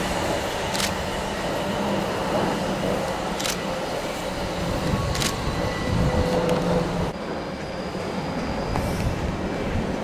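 Electric multiple-unit trains running away from the platform: a steady rail rumble with a faint motor hum and a few sharp clicks. The higher sounds fall away about seven seconds in as the trains recede.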